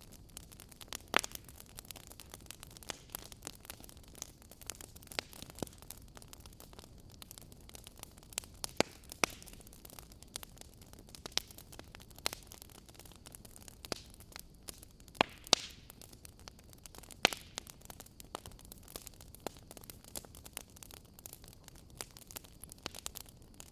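Wood fire crackling in a fireplace: irregular sharp pops and snaps over a steady low hiss, with a few louder pops scattered through.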